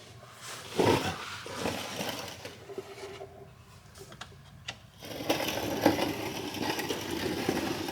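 Scraping and rustling of a person sliding under a car, with scattered clicks, getting busier about five seconds in.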